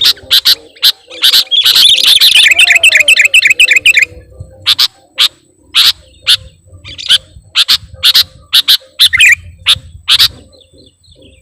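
Sooty-headed bulbuls (kutilang) calling loudly. About a second in comes a fast chattering run of notes lasting roughly three seconds, then sharp single call notes repeated one or two a second, stopping near the end.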